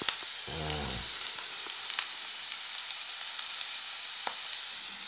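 Potatoes frying in a pan: a steady sizzle with scattered crackles and pops.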